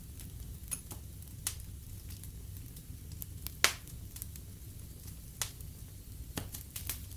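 Fire burning in a fireplace: a low steady rumble of flames with scattered sharp crackles and pops, the loudest pop about three and a half seconds in.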